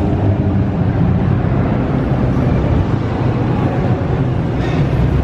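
Car engines idling and pulling in, a steady low rumble inside a parking garage.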